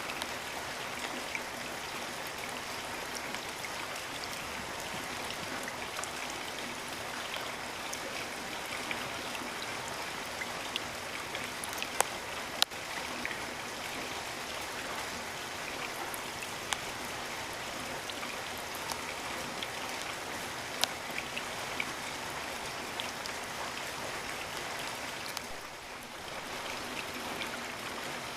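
Steady rain with scattered louder drops striking close by, two sharp ones about twelve seconds in.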